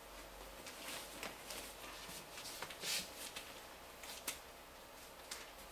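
Faint, intermittent rustling and brushing of fabric as an anti-embolism compression stocking is worked onto a leg and smoothed, with one sharp tick about four seconds in.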